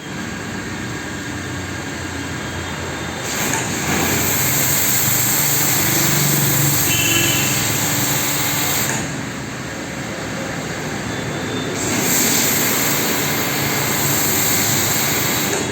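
Car wash equipment running: a steady motor noise, with a hissing spray that grows louder from about three seconds in until nine seconds, and again from about twelve seconds to the end.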